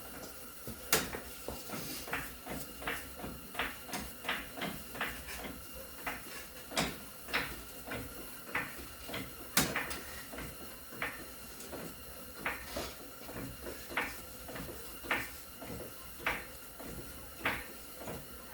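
Floor jack being pumped by hand to lift an SUV, one short clack on each stroke of the handle, about two a second.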